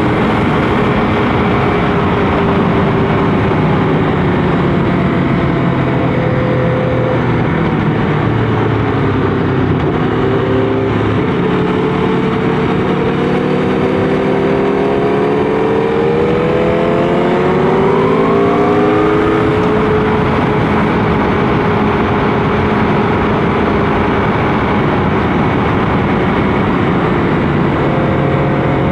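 Motorcycle engine running under load while riding, its pitch rising and falling with the throttle and gears. It climbs in one long acceleration from about the middle of the stretch, then holds steadier.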